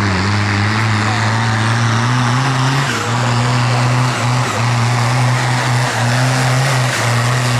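A tractor engine running steadily, its note dipping briefly a few times.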